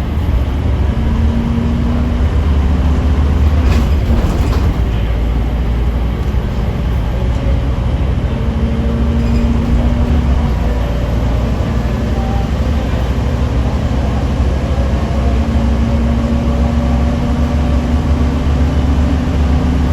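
Scania K310UB6X2 tri-axle bus's five-cylinder diesel and drivetrain running under way: a steady low rumble with a low hum that rises in and fades out a few times, and a brief click about four seconds in.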